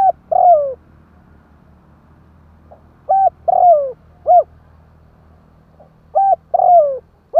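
Spotted dove cooing: a three-note phrase repeated about every three seconds, a short coo, a longer coo that falls in pitch, then a short coo.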